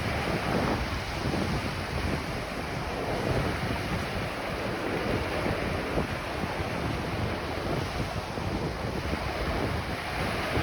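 Ocean waves washing onto a beach, a continuous rushing surf that swells and eases gently, with low rumbling wind buffeting the microphone.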